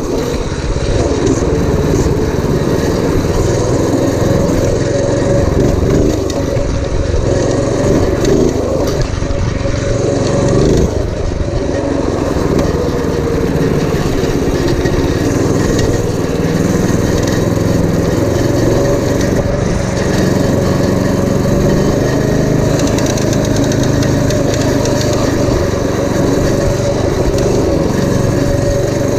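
Predator 212cc single-cylinder four-stroke engine on a minibike, running continuously; its pitch wavers up and down through roughly the first ten seconds, then holds steady.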